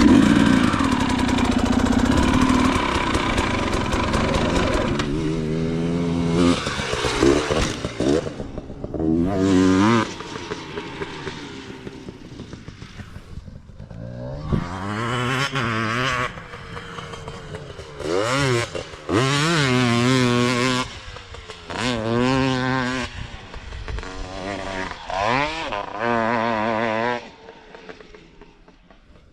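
Dirt bike engine being ridden hard on a motocross track: the revs climb and fall again and again as the throttle is opened and shut. The sound drops away about two seconds before the end.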